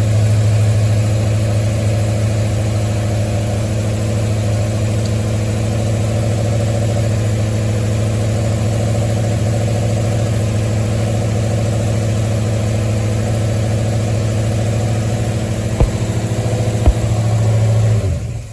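1973 Ford Mustang engine idling steadily. Two sharp clicks come near the end, then the engine is switched off and runs down to a stop.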